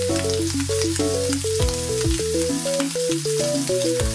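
Bacon-wrapped king oyster mushroom skewers sizzling in a frying pan, under background music.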